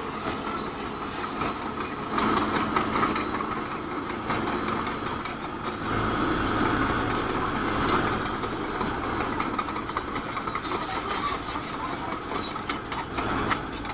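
Bulldozer's diesel engine running steadily. It grows louder about two seconds in and again around six seconds, with some clattering near the end.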